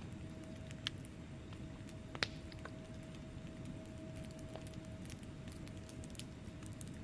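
Wood fire burning in a fireplace: a steady low rush of flames with scattered crackles from the burning logs, and two louder pops about one and two seconds in.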